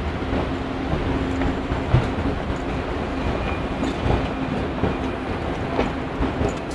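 Ambience of a large train station hall: a steady rumble with a constant low hum and scattered short clicks and knocks.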